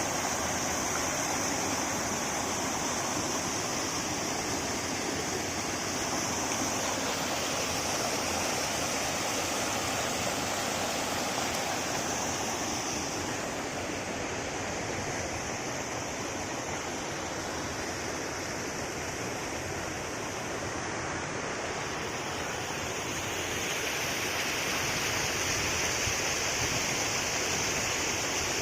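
Steady rushing water, like a stream or small waterfall, with a constant high hiss over it.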